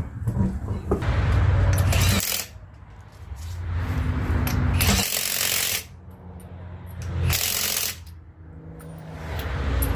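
Pneumatic impact wrench at a tire shop, rattling in several bursts of a second or two each as lug nuts are run on or off during a tire change.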